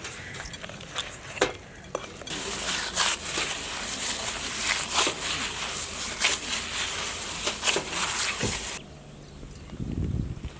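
Hands mixing rice-flour dough with hot water in a bowl: a few clicks, then a crackling, rustling noise for about six seconds that stops abruptly.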